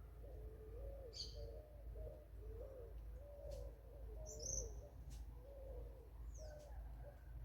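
Forest birds calling: a steady run of low, bending cooing notes, about two a second, with a few short high chirps from another bird, about a second in and again near the middle.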